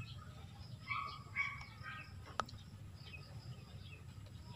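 Faint short bird chirps about a second in, followed by a single sharp click, over a low steady outdoor rumble.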